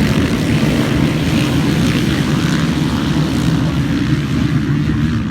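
Motocross motorcycle engines running and revving together as a steady, dense drone, with faint rises and falls in pitch as the riders work the throttles.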